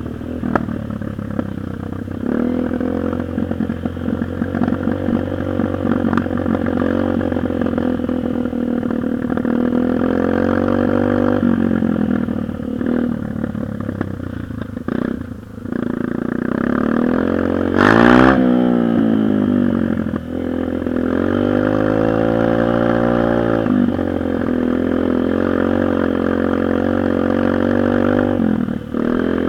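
Dirt bike engine running under throttle, its pitch climbing in long sweeps and dropping back several times as it accelerates and eases off. About 18 s in it is loudest, with a sharp fall and then a rise in pitch.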